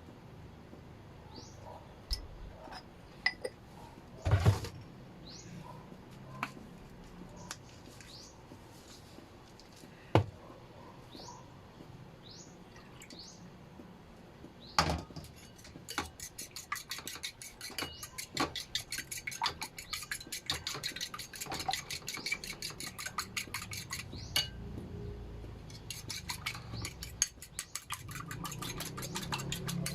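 Kitchen utensil against a bowl. First a few separate knocks and clinks, then from about halfway a fast, steady run of clinking, as when ingredients are stirred or mixed in the bowl. Short high bird chirps come through in the first half.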